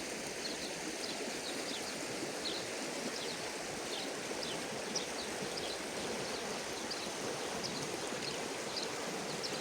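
Steady rushing sound of running water, with faint short high chirps scattered throughout.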